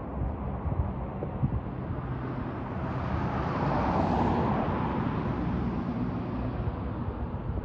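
A car driving past on a snowy street: its tyre and engine noise swells to a peak about four seconds in, then fades away.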